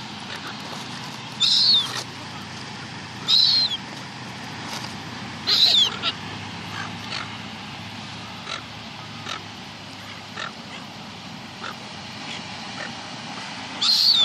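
Gulls calling: four short, high cries that each drop in pitch at the end, three in the first six seconds and one near the end, over steady background noise.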